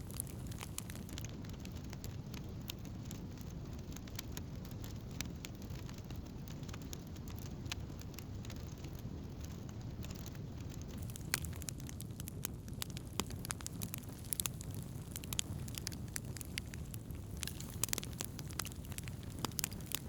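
Wood campfire burning steadily, with a low steady rush of flame and frequent sharp crackles and pops scattered throughout, busier in the second half.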